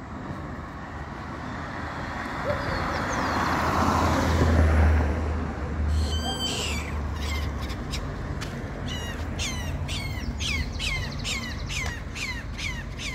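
A car drives past, loudest about four to five seconds in. From about six seconds in, a bird calls in a rapid series of harsh, falling notes, about three a second.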